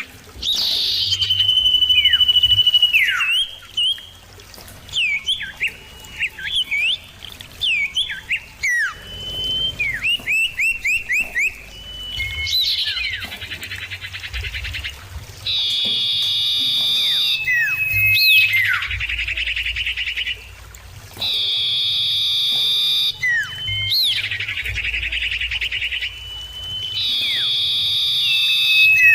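Common iora calling back and forth: one long steady whistle, then quick down-slurred whistles and a fast trill, then buzzy two-second phrases repeated every five or six seconds.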